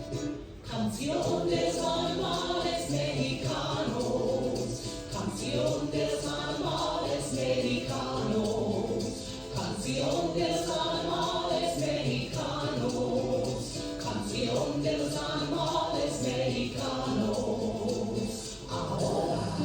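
Music with a group of voices singing together over a steady accompaniment.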